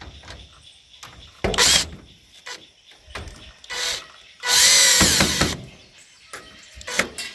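Power drill driving screws in several short bursts. The longest burst, about a second long near the middle, wavers in pitch.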